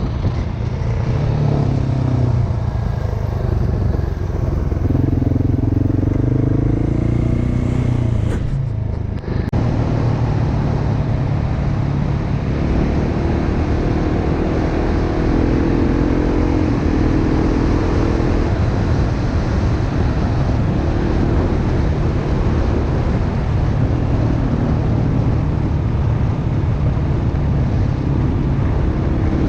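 Dirt bike engine running steadily at riding speed, with a broad rush of wind and road noise. The engine note drops briefly about nine seconds in, then picks up again.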